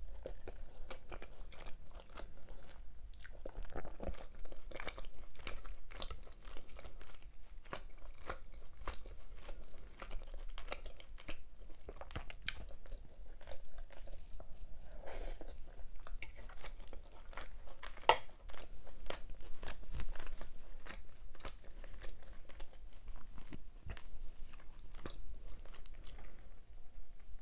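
Close-miked eating sounds: continuous chewing with many crisp crunches and wet mouth clicks, as of a person eating cheesy beef Alfredo pasta with bacon and cheese buns.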